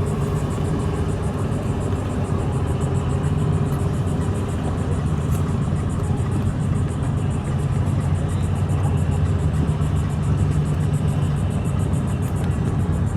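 A motor vehicle engine running steadily with a low, even hum, with a faint fast ticking high up.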